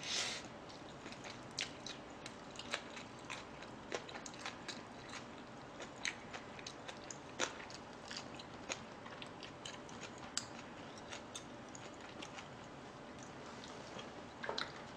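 Quiet, close-up chewing of green onion kimchi with fried rice: irregular small crunches and mouth clicks, with a louder bite at the start.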